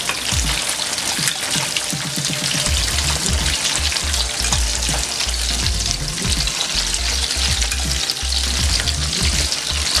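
Chopped liver deep-frying in hot vegetable oil in a pan: a dense, steady sizzle and crackle.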